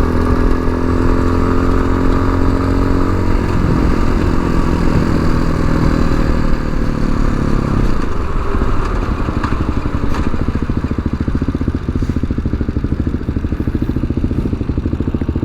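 Tao Tao TBR7 dual-sport motorcycle's single-cylinder engine running under way, with wind noise across the microphone. The engine holds a steady note for the first few seconds, then the clear tone fades out by about halfway through, leaving a lower, rougher rumble.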